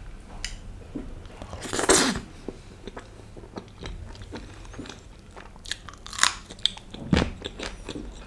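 Close-miked eating sounds: chewing a mouthful of butter naan dipped in white butter chicken gravy, then crunchy bites into a raw green chilli. The chewing is a run of crackles and clicks, with a loud burst about two seconds in and sharp bites near six and seven seconds.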